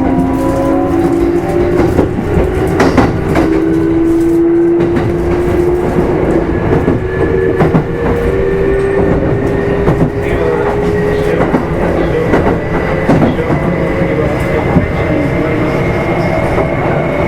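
Running sound of a Kintetsu 5200 series electric train's motor car, heard on board: the traction motor and gear whine climbs slowly in pitch as the train picks up speed, over a steady rumble of wheels on rail, with irregular clicks over rail joints.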